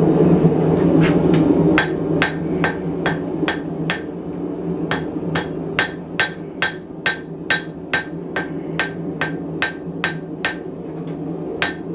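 Blacksmith's hammer striking steel on an anvil, drawing out the end of a bar, with about two to three ringing blows a second. A steady low hum runs underneath.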